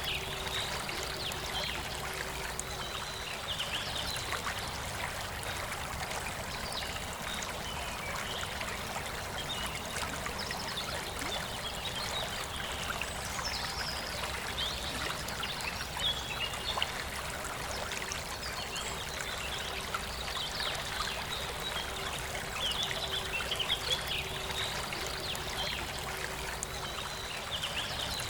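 Forest river flowing and trickling steadily, with birds chirping on and off over the water.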